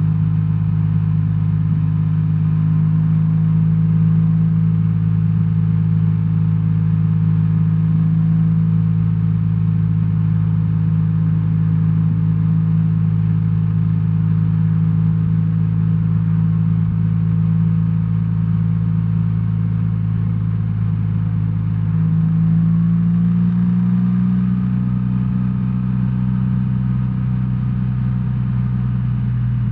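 BMW R1300R's boxer-twin engine running steadily under way, with a low, even note. About 22 seconds in the pitch rises a little, and a couple of seconds later it settles into a slightly different note.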